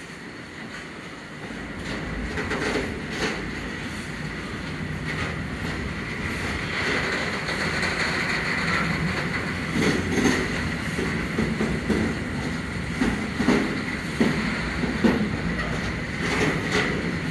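Freight train of grain wagons rolling past, growing louder over the first couple of seconds. Its wheels rumble and click over the rail joints, under a steady high-pitched wheel squeal.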